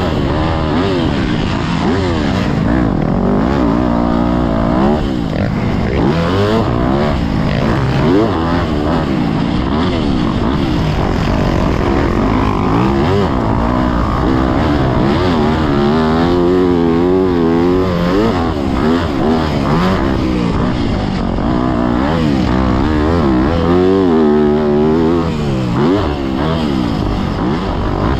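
Yamaha YZ motocross bike's engine revving hard, its pitch rising and falling over and over with throttle and gear changes as it is ridden around a track.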